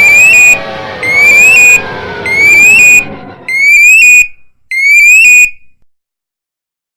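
An electronic alarm beeping five times, each beep a short rising chirp, about a second apart. A music track slides down in pitch and dies out under the first three beeps.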